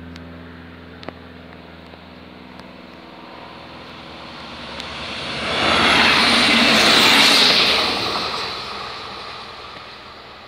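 Short regional passenger multiple-unit train passing the crossing at speed: its wheel and rolling noise swells over a few seconds, peaks about six to eight seconds in, then fades away.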